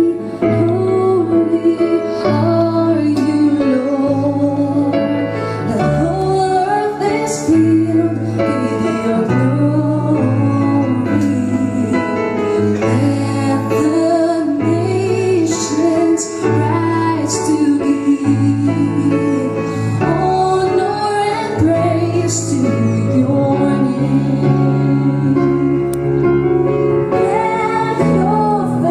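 A woman singing a slow song over instrumental backing, with held bass notes that change every second or two.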